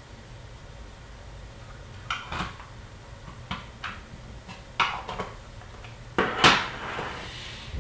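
Hockey cards and their plastic holders being sorted on a table: a series of light clicks and taps, then a louder clatter and scrape about six seconds in.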